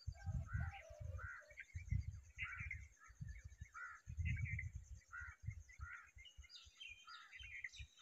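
Birds chirping: many short call notes, with a brief falling series about a second in and quicker, higher notes near the end, over an irregular low rumbling that is louder than the calls.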